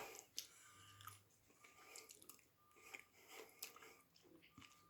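Faint chewing of a mouthful of toasted sub sandwich, with soft scattered crunches and clicks.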